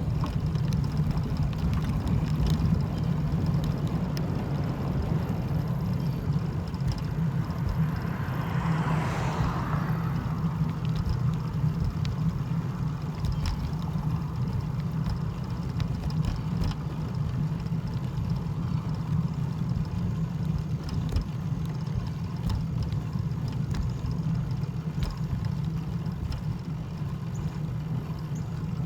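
Steady low rumble of a running vehicle, with a brief swell of hiss about nine seconds in.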